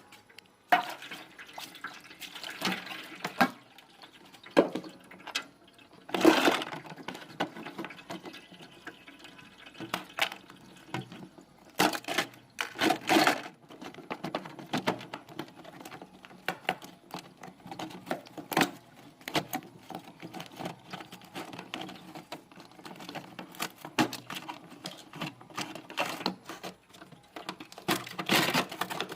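Thick frost being cleared from a refrigerator freezer: irregular knocks and scrapes with water and ice splashing and sloshing.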